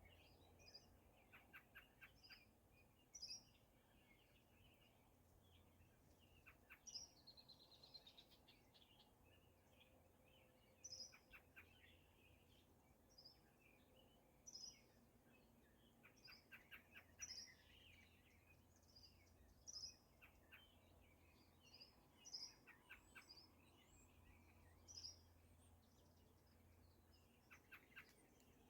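Faint outdoor birdsong: several birds calling, one repeating a short high note every two to three seconds, with bursts of quick trills from others.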